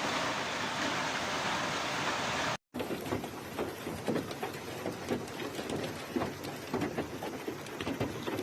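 Heavy storm rain: a steady rush of noise, then, after a short cut, dense, irregular pelting with many sharp ticks as it strikes a hard surface.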